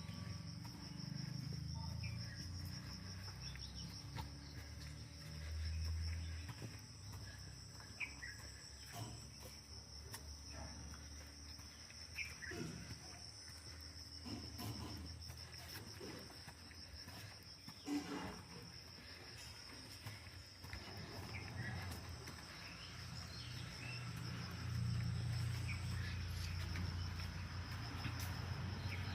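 Insects, likely crickets, trilling steadily in one high, fine-pulsed tone, over a low rumble that swells now and then, with a few faint knocks.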